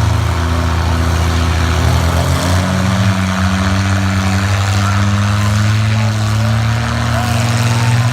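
Big lifted-truck engines running in a steady deep drone, more than one pitch at once, with one engine's pitch stepping up slightly about two and a half seconds in.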